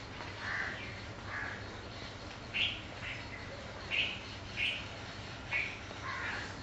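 A bird calling repeatedly: about eight short calls spaced irregularly, roughly one every half second to second, over a faint steady low hum.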